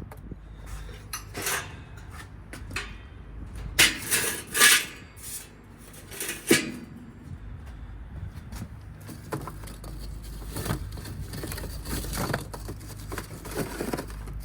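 Irregular knocks and clinks of metal grill tools and grate as food is handled on a charcoal grill. There are a few louder scraping strokes about four seconds in, and a sharp clink with a brief ring at about six and a half seconds.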